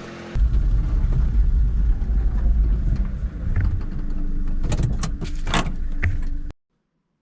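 Loud, heavy low rumble of a running motor vehicle, with a few sharp clicks and knocks near the end; it cuts off suddenly.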